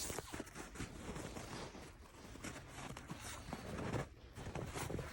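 Faint, irregular crunching and scratching of feet moving in snow.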